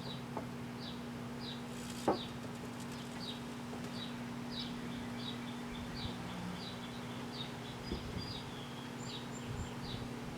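Microwave oven running with a steady hum, a single sharp pop about two seconds in. Short high chirps repeat about twice a second over the hum.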